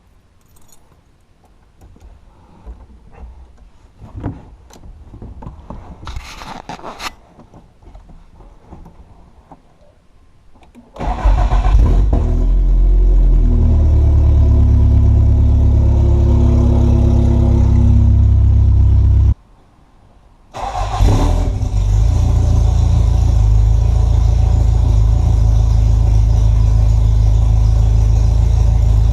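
Toyota AE86 Corolla's four-cylinder engine starting and running with the exhaust removed after the header, very loud. A few light clicks and rustles come first. The engine catches about eleven seconds in and runs steadily, stops abruptly a few seconds before the twenty-second mark, and is running again a little over a second later.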